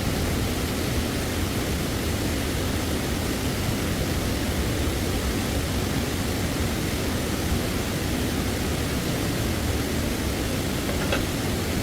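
Stream water rushing, a steady even noise, with one faint click near the end.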